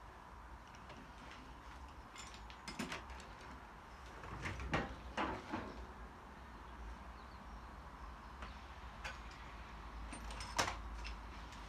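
A few scattered knocks and clicks, the sharpest near the end, over a low steady hum.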